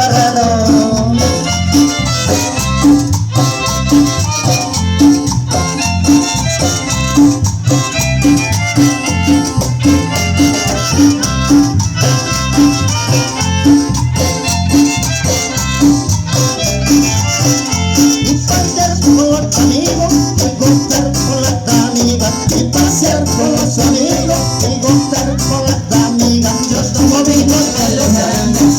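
Live chanchona band playing an upbeat Latin dance tune with a steady beat, a melody above the bass line, and rattle percussion.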